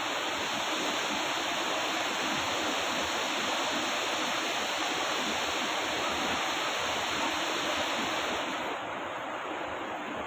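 Waterfall rushing steadily with dense white-water noise, turning a little quieter and duller near the end.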